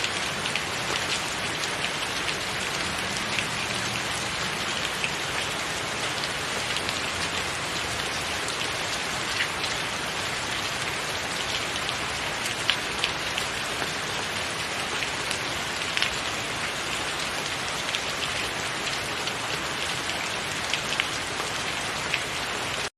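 Steady rain falling on a tiled roof: a dense, even hiss of rain with individual drops ticking sharply here and there.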